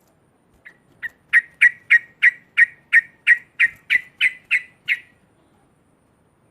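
Yellow-vented bulbul (cucak trucuk) giving its loud 'ngekek' chatter: a run of about fourteen sharp, evenly spaced notes, about three a second, stopping about five seconds in.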